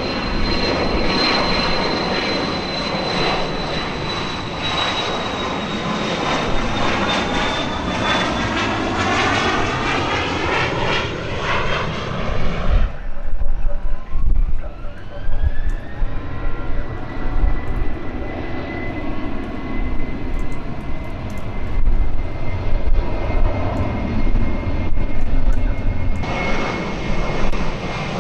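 Aircraft turbine engines running, a loud roar with a high whine. In the first half the whine falls slowly in pitch. After a sudden change partway through, a new whine rises and then holds steady.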